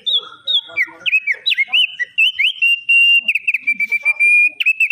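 Opior, a white-eye songbird, singing a fast, unbroken run of clear whistled notes that slur up and down, with quick chattering trills between them.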